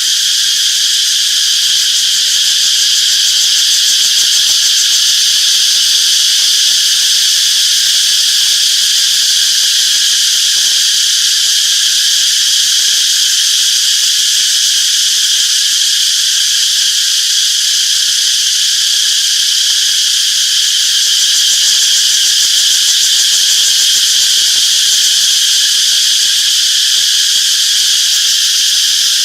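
A chorus of cicadas giving a loud, continuous, high-pitched buzzing drone that holds steady without pause.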